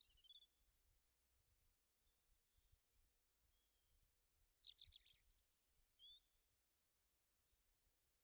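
Faint birds chirping, with short sweeping calls throughout and a quick cluster of louder calls about halfway through.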